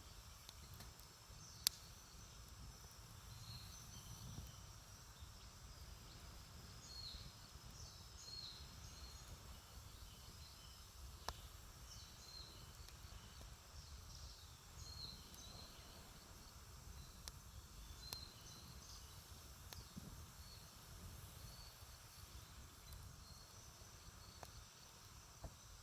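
Quiet campfire with a few sharp, isolated pops from the burning wood, one every several seconds, over a low rumble. Faint high chirping runs through it.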